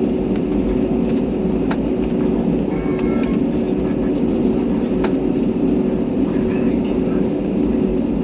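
Passenger airliner cabin noise: the steady drone of the engines and airflow heard inside the cabin, with a constant hum running through it and a few faint ticks.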